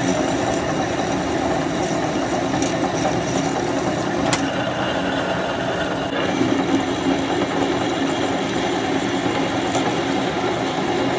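A workshop machine's motor running steadily with a constant hum. There is one sharp click about four seconds in.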